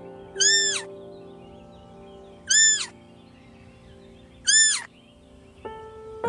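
A high animal call, rising then falling in pitch, repeated three times about two seconds apart, the same each time, over soft background music chords.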